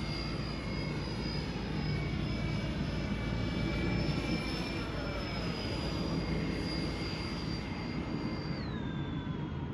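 Freewing A-10 model jet's twin 80mm electric ducted fans whining steadily on a slow low pass, the high fan tone dropping sharply in pitch near the end.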